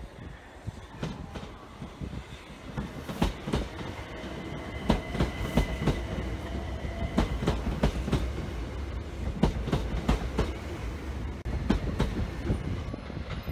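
Train moving on the rails, its wheels clicking and clattering irregularly over rail joints and pointwork, over a low rumble, with a faint high steady tone for a few seconds in the middle.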